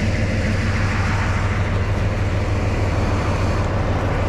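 Diesel engine of a TU7A narrow-gauge locomotive running steadily at idle, an even low hum.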